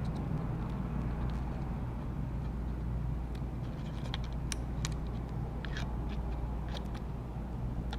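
Faint scattered ticks and light scrapes from small parts and tape being handled while taking apart an iPod touch, over a steady low hum.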